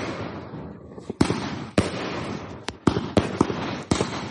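Nordlicht 'Die Hand Gottes' 239-shot firework compound cake firing: a quick, irregular string of about eight sharp bangs in four seconds. Each bang is followed by a fading crackling rumble.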